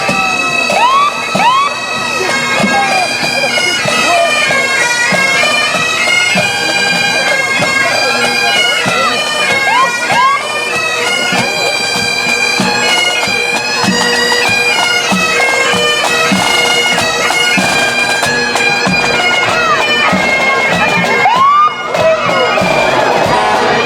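Pipe band playing: bagpipes carrying a stepping tune over a steady drone, with drum beats underneath and a brief break in the playing near the end.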